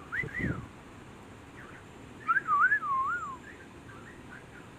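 A bird whistles a short two-note phrase, then about two seconds later a longer wavering phrase of several up-and-down notes. A low thump comes near the start.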